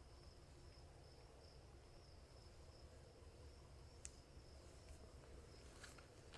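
Faint insect trilling, a steady high-pitched chirr, with a few soft clicks.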